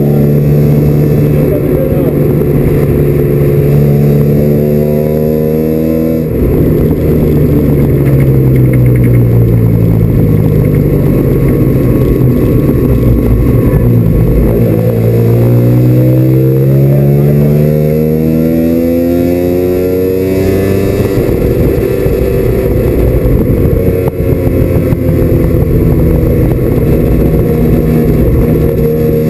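Mazda RX-7 FC's 13B rotary engine heard from inside the race car's stripped cabin while lapping a circuit. It holds a steady note, then from about six seconds in the engine speed sinks slowly for several seconds before climbing again and settling.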